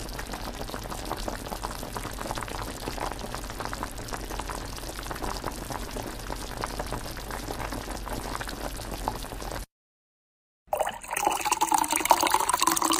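Water boiling with a steady, dense bubbling that cuts off abruptly about ten seconds in. After a second of silence, liquid starts pouring into a container, its pitch rising as it fills.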